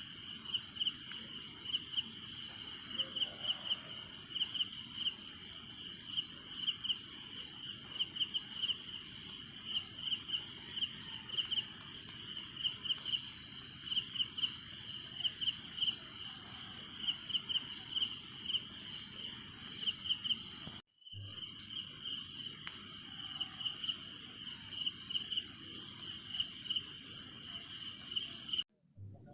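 Chorus of insects: a steady high-pitched buzz, with a pulsed chirp repeating in short groups about once a second. The sound breaks off briefly twice.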